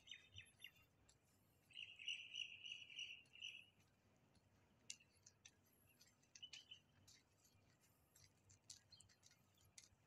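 Faint outdoor birdsong: small birds chirping and twittering, with a run of rapid chirping about two seconds in and scattered short chirps after.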